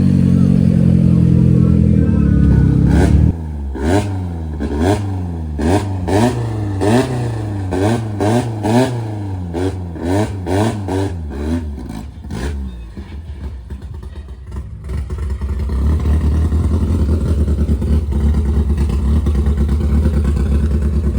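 Opel Corsa B's small petrol engine held at a steady high rev, dropping off about three seconds in. It then goes into a run of about a dozen quick throttle blips, each a sharp rise and fall in pitch. After a short quieter spell it settles into a steady, loud, lower drone for the last few seconds.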